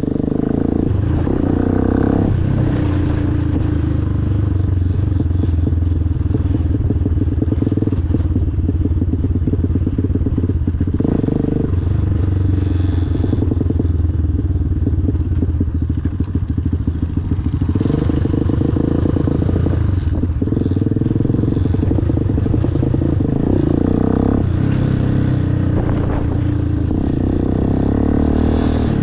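Motorcycle engine running while riding, its pitch rising and falling several times as the throttle and gears change.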